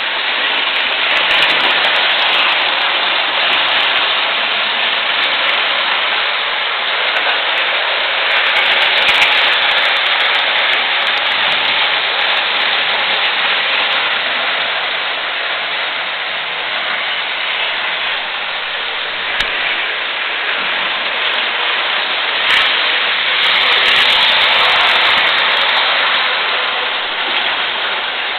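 Electric model train running steadily over the layout's track, a continuous whirring rattle of motor and wheels on the rails, with a couple of sharp clicks about two-thirds of the way through.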